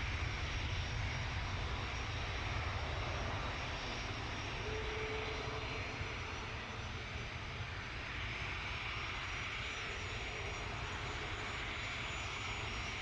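Airliner engines running at a distance across the airfield: a steady rumble with a faint high whine that eases off slightly.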